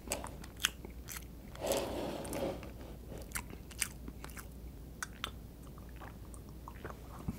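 Close-miked chewing of soft cream-frosted sponge cake: scattered small wet mouth clicks, with a softer, mushy stretch about two seconds in.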